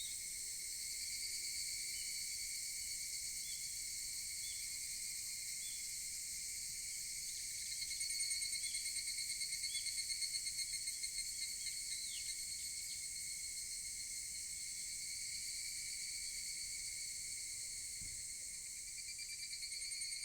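Higurashi (evening cicadas) calling in a steady high chorus, with a louder pulsing call swelling about eight seconds in and fading after about four seconds, and another rising near the end.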